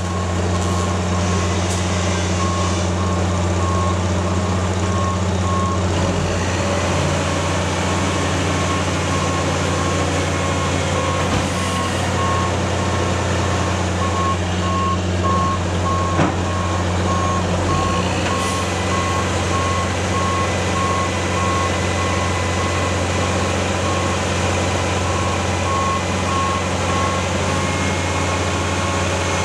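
A truck's backup alarm beeping at a steady, even pace over the low, steady running of a Mack Granite roll-off truck's diesel engine. The beeps stop near the end.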